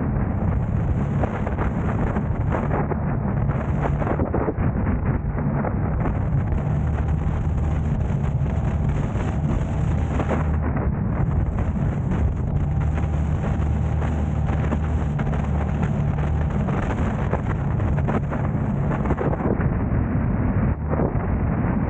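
Steady low rumble of road noise and wind buffeting the microphone from a car on the move, with a faint engine hum underneath.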